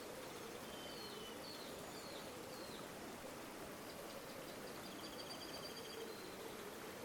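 River water flowing steadily, with small birds calling over it: a few short chirped notes in the first three seconds, then a rapid trill lasting about two seconds, starting about four seconds in.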